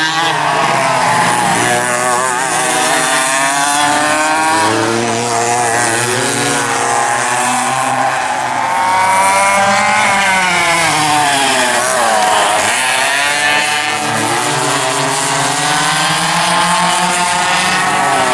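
Vintage dual rear-engine racing karts with their two-stroke engines running hard, several engine notes rising and falling together as the karts accelerate and back off through corners, with a deep dip in pitch about twelve seconds in before climbing again.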